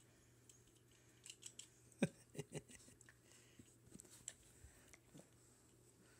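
Faint scattered clicks and taps, with a quick run of louder knocks about two seconds in, from a puppy playing and nibbling.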